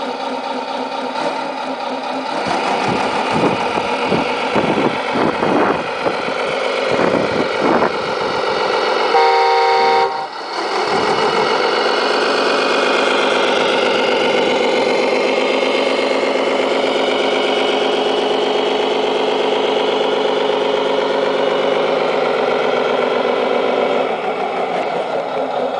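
Tamiya Scania R620 RC truck's sound unit playing a simulated truck engine that rises and falls in pitch with the throttle, with a horn blast of about a second near the middle.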